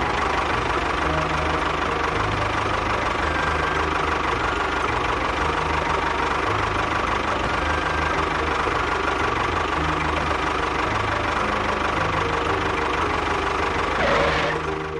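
Small engine running steadily at an even speed, with a low pulsing beat, then cutting off abruptly about a second before the end.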